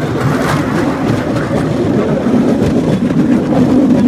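Cambodian bamboo train (norry) running along the rails, a loud steady rumble and rattle.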